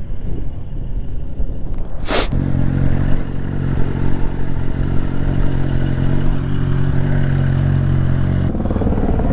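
Engine running steadily with a low, even hum, preceded about two seconds in by a brief loud burst of noise. The hum changes character near the end.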